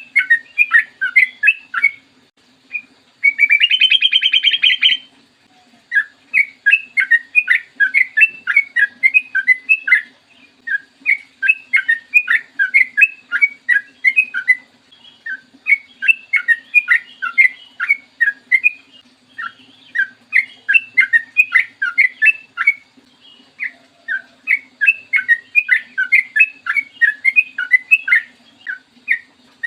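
Yellow-vented bulbul (trucukan) singing long runs of quick bubbling notes in repeated phrases, with a harsh buzzy call lasting about two seconds just after the start. A faint steady low hum lies under the song.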